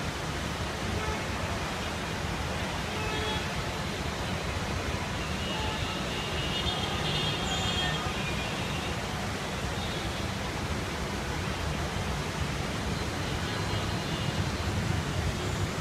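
Steady noise of heavy rain, with wind rumbling on the microphone and a few faint short tones now and then.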